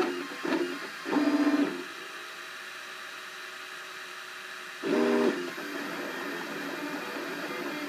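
Cubify 3D printer printing: its stepper motors whine in short pitched moves, loudest about a second in and again about five seconds in, over a steady machine hum.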